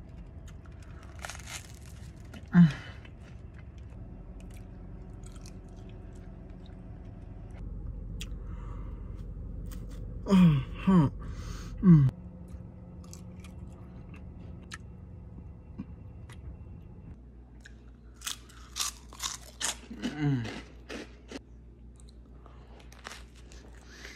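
A person biting and chewing food close to the microphone, with crunching and smacking. It is broken by a few short hums that fall in pitch, and a steady low hum sits under the first two-thirds.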